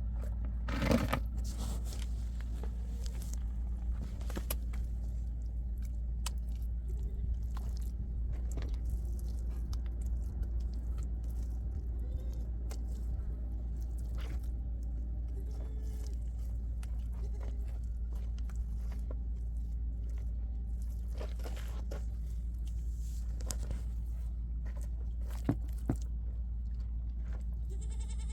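Sheep or goats bleating now and then, with scattered crunching clicks over a steady low rumble. A louder bleat comes about a second in.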